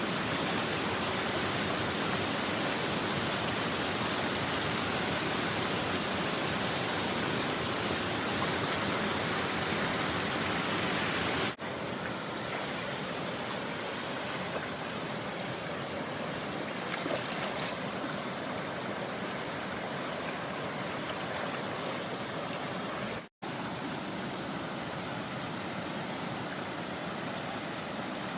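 Mountain stream water rushing steadily, an even hiss of flowing water; the level steps down slightly at a cut a little under halfway through, and the sound drops out for an instant about three-quarters of the way through.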